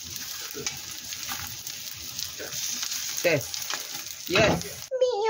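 Egg-battered sausage slices sizzling steadily in hot oil in a nonstick frying pan as they are turned with chopsticks. Two short voice-like sounds break in toward the end, and a pop song cuts in just before it finishes.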